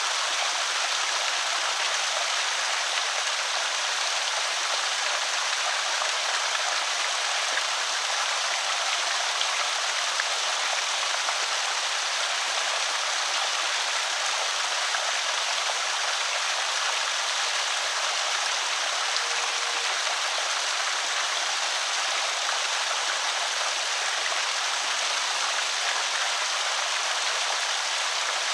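Water spilling over a small creek spillway: a steady, even rush and trickle.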